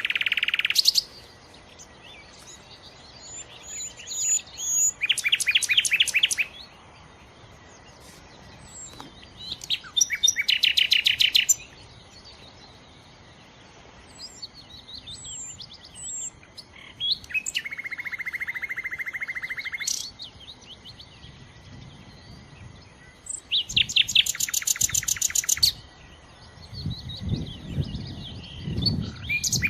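Nightingale singing: loud phrases of fast repeated notes, each lasting one to three seconds and separated by pauses of a few seconds. One phrase, about two-thirds of the way through, is a lower buzzing trill. A low rumble comes in near the end.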